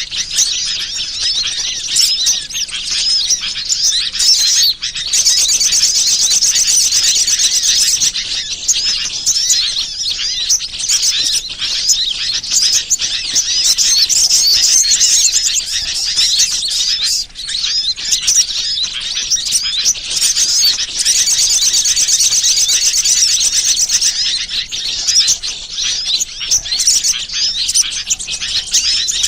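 A dense chorus of small songbirds chirping and twittering continuously in a bird-lure (pikat) recording, with a rapid high trill that runs for a few seconds twice.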